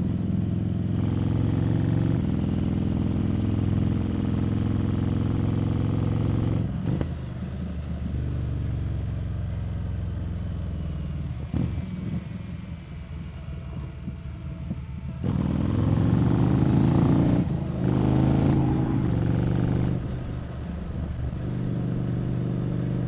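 Harley-Davidson Street Rod 750's liquid-cooled V-twin running under way, heard from the rider's position. It holds steady, eases off about seven seconds in, then accelerates hard about fifteen seconds in, rising in pitch with a short dip like an upshift a couple of seconds later before settling.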